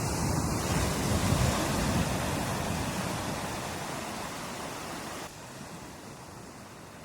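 Ocean surf: a wave breaks with a low rumble, loudest in the first couple of seconds, and its wash slowly fades, dropping off suddenly a little past five seconds in.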